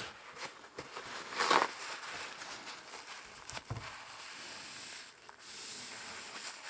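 Wiping and handling noises while a spill is being cleaned up: scattered knocks and rustling, a louder scrubbing burst about a second and a half in, and a steady hissing rub near the end.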